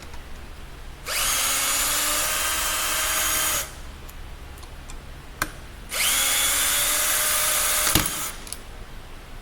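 Electric power tool run twice, each time for about two and a half seconds, its pitch rising as it spins up and then holding steady. A sharp click comes between the runs, and another as the second run ends.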